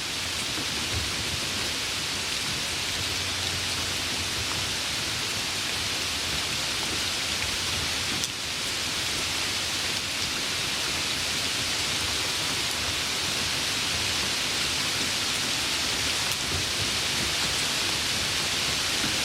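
Steady rain falling, an even hiss with a brief dip about eight seconds in.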